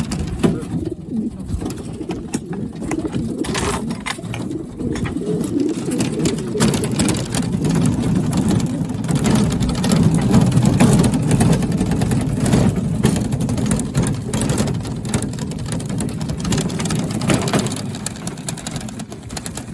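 A crowd of racing pigeons cooing together in their baskets, a steady low cooing that swells about halfway through, with scattered light knocks and clicks.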